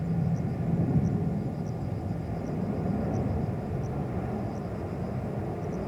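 Distant jet airliner engines giving a steady low rumble.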